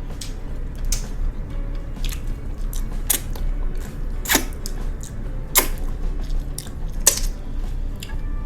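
Close-miked eating sounds from a pork-knuckle mukbang: sharp wet mouth clicks and smacks at irregular intervals, five of them louder, over a steady low hum.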